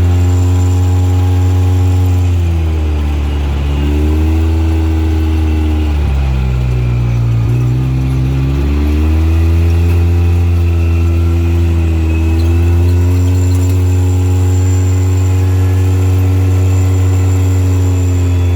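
Off-road vehicle engine running under changing load. Its pitch drops twice, around 3 seconds in and again around 7 seconds, then climbs back and holds steady.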